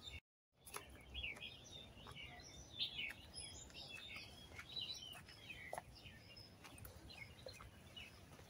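Small birds chirping in the trees, many short high chirps overlapping over a faint outdoor background, with a brief gap of total silence near the start.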